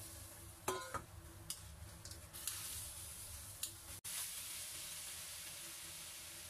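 Chicken wings sizzling in hot oil in a wok, with several sharp clicks and knocks during the first four seconds. About four seconds in, the sound drops out briefly and gives way to an even, steady sizzle as the wings are stirred in their sauce.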